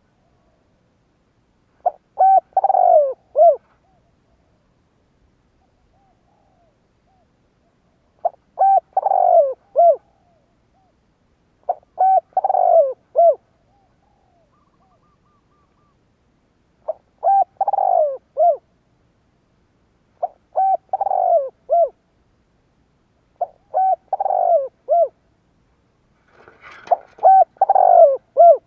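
Spotted dove cooing: seven phrases of several short, descending coo notes, each phrase about a second and a half long and a few seconds apart.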